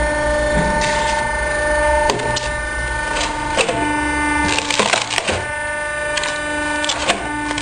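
Hydraulic firewood cutting and splitting machine running with a steady mechanical whine, with repeated cracks and knocks of logs being cut and split.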